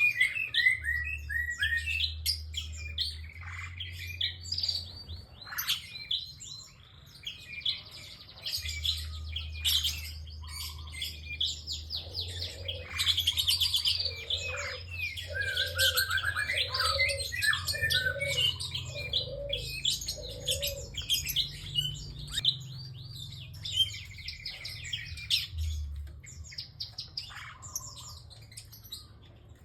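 A prinia singing continuously: rapid, high chirps and trills with hardly a pause. In the middle comes a run of about six lower, evenly spaced notes, over a steady low hum.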